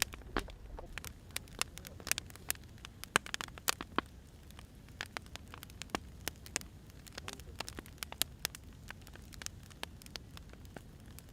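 Wood fire crackling, with irregular sharp pops and snaps over a low steady background.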